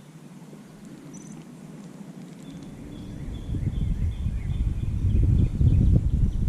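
Wind buffeting the microphone: a low, gusty rumble that builds from about halfway in and becomes loud. Faint bird chirps sound above it.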